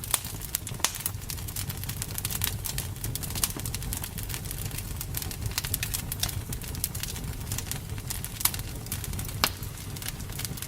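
Campfire burning: wood crackling with frequent sharp pops over a steady low rumble of the flames. A few louder pops stand out near the start and near the end.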